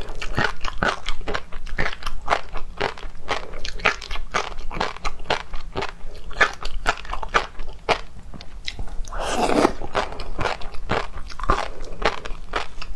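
Close-up crunching and chewing of food, a dense run of crisp crackles and bites, with one longer, louder rush of sound a little past the middle.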